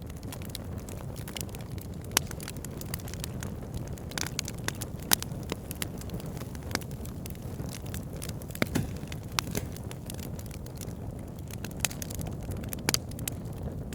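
Wood fire burning: a steady low rumble of flames with frequent sharp crackles and pops from the logs, a few of them louder.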